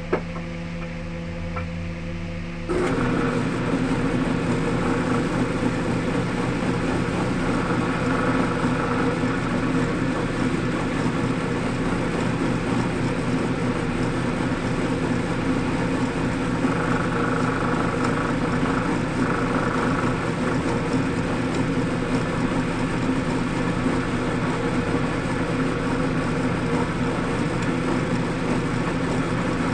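Wood lathe running steadily, jumping suddenly louder and noisier about three seconds in.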